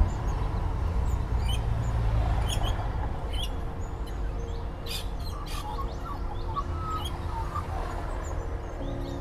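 Small birds chirping in short scattered calls over a steady low outdoor rumble. A few held tones come in faintly about halfway through.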